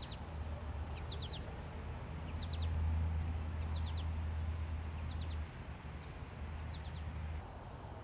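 A bird calling over and over, each call a quick group of two or three short falling chirps, about once a second. Under it a steady low rumble swells in the middle and stops shortly before the end.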